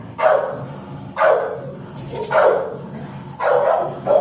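A dog barking repeatedly, about one bark a second, four barks in all.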